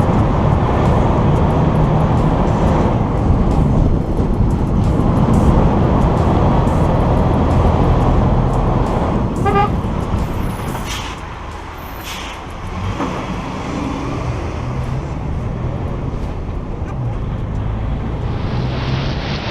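Heavy truck engine running with road noise, a little quieter from about eleven seconds in.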